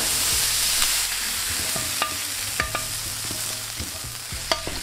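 Marinated chicken wings sizzling on a hot cast-iron griddle pan as they are tipped into a bowl. The sizzle is loudest in the first second and then dies down, with a few light metallic clinks with a short ring further on.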